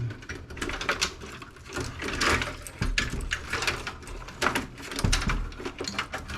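Irregular clicking and clattering of metal and plastic parts handled inside a desktop computer case as it is taken apart.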